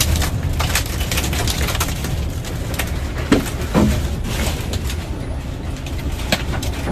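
Tornado winds buffeting the microphone as a heavy low rumble, with many sharp cracks and clatters of debris and two brief louder sounds a little past the middle.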